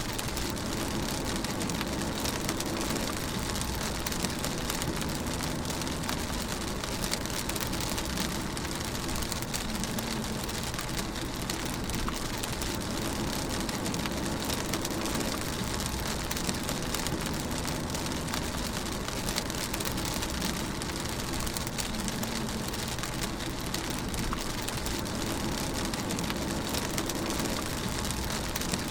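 Steady rain hitting a car's roof and windows, heard from inside the moving car, with a low, steady rumble of tyres and engine underneath.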